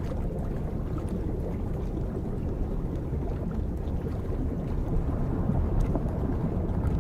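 Steady low rumble of underwater ambience beneath river ice, with a few faint clicks.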